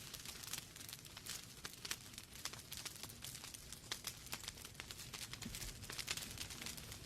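Wood fire crackling in a fireplace: a steady run of irregular sharp pops and snaps from the burning logs over a low hiss.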